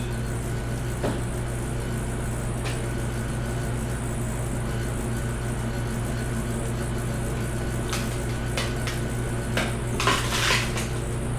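A few sharp metallic clinks of hand tools and engine parts during an engine teardown, over a steady low hum, with a louder clatter near the end.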